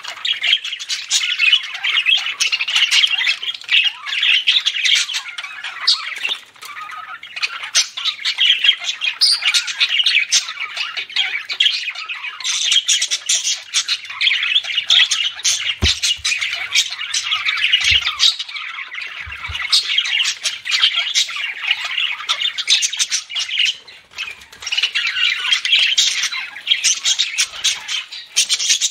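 Budgerigars chattering and squawking in a dense, unbroken stream of high chirps and warbles, with two brief lulls.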